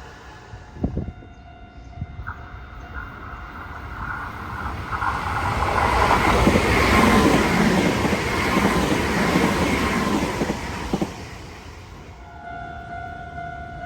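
A Nankai Railway electric train passing. The noise of wheels and cars builds to a peak around the middle and then fades, with a few sharp clicks near the start and steady tones running through it.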